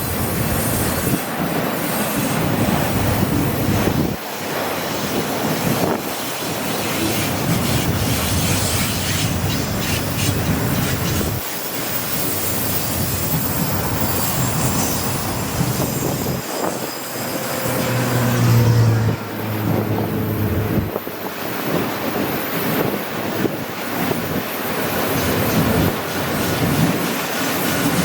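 Freight train of empty auto-rack cars rolling past, steel wheels clattering over the rails with some wheel squeal.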